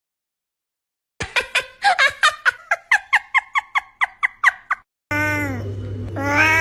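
A cat's rapid run of short, high calls, about five a second, then after a brief break a long wavering meow that dips and rises, with a steady low hum under it.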